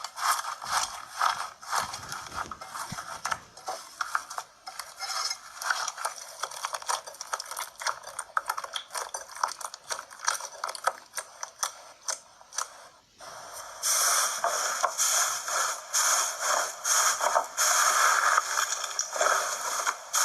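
Slime being squeezed and worked by hand, a dense run of small sticky clicks and crackles. It gets abruptly louder and fuller about fourteen seconds in.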